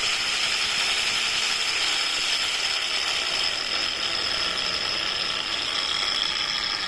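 Makita PO5000C random orbital polisher running steadily at speed, a mechanical whirr with a steady high whine from its motor and gears.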